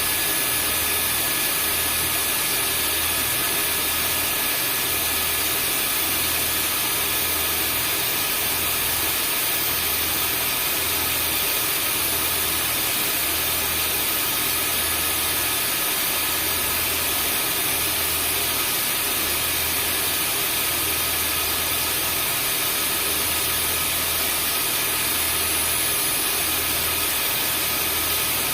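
Vacuum cleaner running steadily: a continuous rushing motor noise with a thin high whine over it and a slow low throb about every second and a half.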